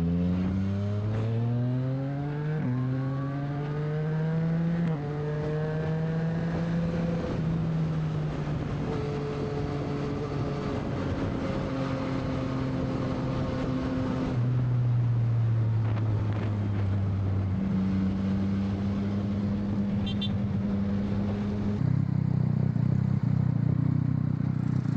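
Yamaha MT-09 three-cylinder motorcycle engine pulling away through the gears, its pitch climbing and then dropping at upshifts about two and a half and five seconds in. It then cruises at a steady pitch, eases off and slows from about 14 seconds, and settles into steady running again near 18 seconds, with wind rushing over the microphone throughout.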